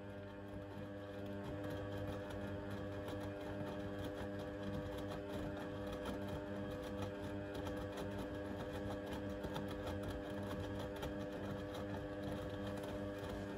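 Blomberg fuzzyDigitronic Granat 3200 washing machine running: a steady whine over a low hum, with rapid ticking throughout.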